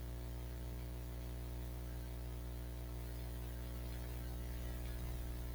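Steady electrical mains hum, an even low buzz with a ladder of overtones and nothing else.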